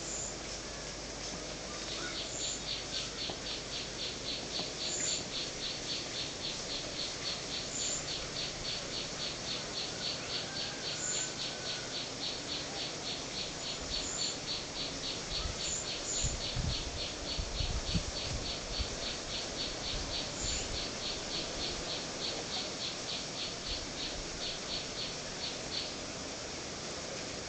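Birds calling: a long, even run of short high calls at about three or four a second, with a higher chirp every few seconds. A few low bumps come about halfway through.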